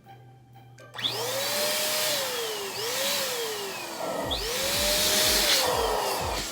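Electric balloon pump starting up about a second in and blowing in spurts, a loud rush of air with a motor whine that rises at each start and then slowly falls, three times. A steady low music beat comes in about four seconds in.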